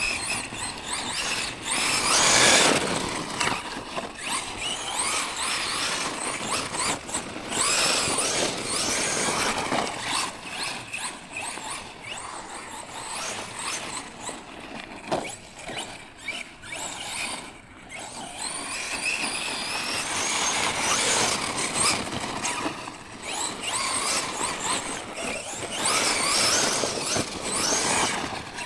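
Tekno MT410 1/10-scale electric monster truck driving hard over rough ground: the electric motor and drivetrain whine, rising and falling with the throttle, over the rush of tyres on dirt and gravel.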